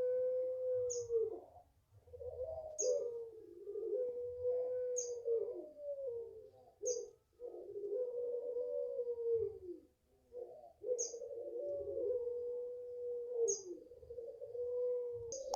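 Puter pelung turtle dove cooing in long drawn-out notes, each held level and then dropping in pitch at its end, one after another. Short sharp high chirps sound about every two seconds over the cooing.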